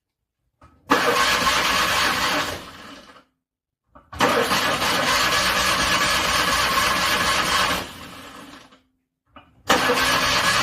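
Car starter cranking a cold engine in three separate attempts, each a few seconds of rapid, even cranking that dies away without the engine catching. The first starts about a second in, the second about four seconds in, and the third near the end.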